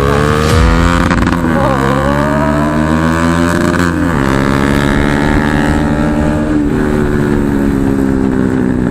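Bajaj Pulsar NS single-cylinder motorcycle engine running under way. Its pitch climbs, drops sharply about a second in and again about four seconds in, then eases down slowly near the end.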